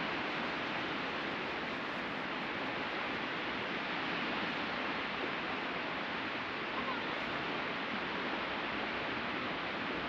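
Ocean surf washing steadily onto the beach, an even hiss with no separate events standing out.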